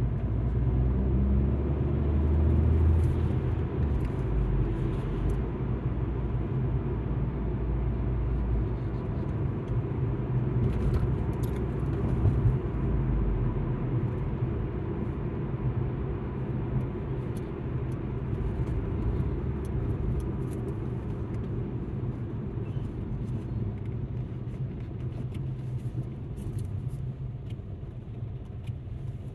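An Alfa Romeo MiTo driving, heard from inside: steady engine and road rumble, deeper in the first half and easing later, with scattered faint ticks.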